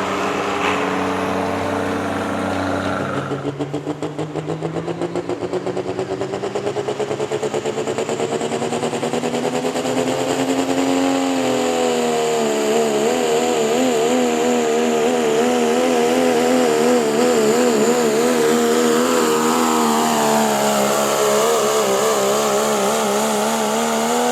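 Pulling vehicle's engine at full throttle under load, dragging the sled down the track. Its pitch climbs steadily for several seconds, then wavers quickly up and down, dips, and drops off sharply at the very end.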